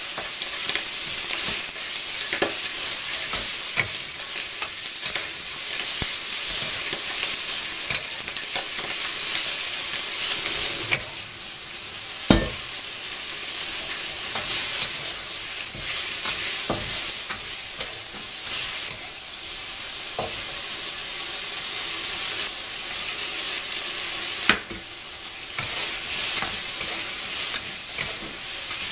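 Pork pieces sizzling as they stir-fry in a wok over high heat, a steady frying hiss, with a spatula scraping and clicking against the pan as it turns them. A sharper knock stands out about twelve seconds in and another a little before the end.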